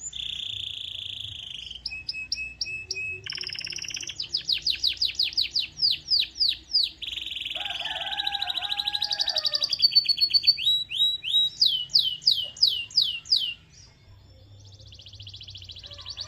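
Domestic canary singing a long, varied song: fast rattling trills and runs of quick falling whistled notes, switching to a new phrase every second or two. The song breaks off briefly about 14 seconds in, then starts up again.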